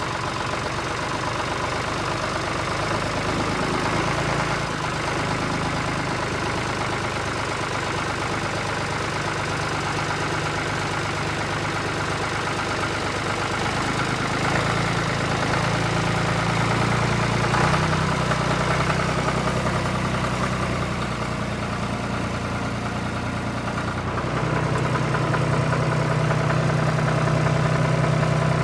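An engine idling with a steady, pulsing low hum, stepping up in level and pitch about halfway through and again near the end, like a vehicle revving slightly.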